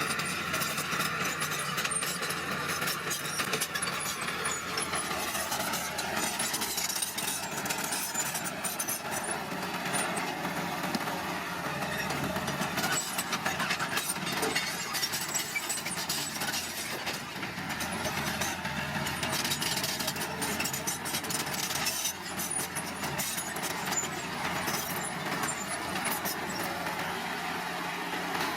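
Small crawler bulldozer at work: its diesel engine runs steadily under a constant clatter of clicks and knocks from the tracks and from the blade pushing crushed stone and soil.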